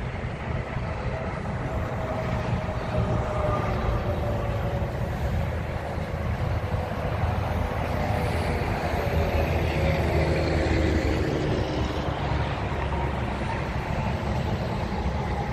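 A car driving along a road, its engine and tyres making a steady rumbling road noise, with faint slowly falling tones.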